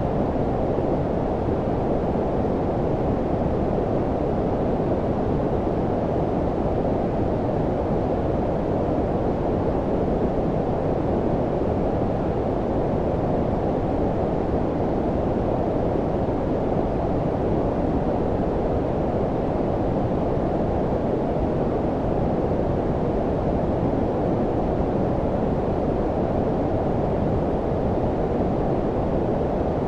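Steady synthetic low-pitched noise of the brown-noise kind: a deep, muffled hiss with its weight below about 1 kHz and little treble, unchanging throughout.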